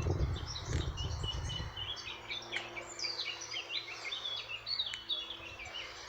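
A songbird singing a long, rapid, twittering phrase of quick varied notes that stops near the end. A low rumble fades out in the first second or so, and a faint steady hum runs underneath.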